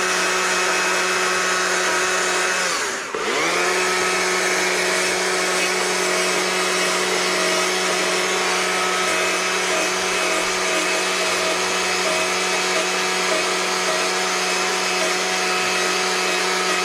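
A power carving tool running steadily at high speed, cutting into wood. About three seconds in its pitch sags briefly, as if under load, then recovers. Near the end it is switched off and spins down.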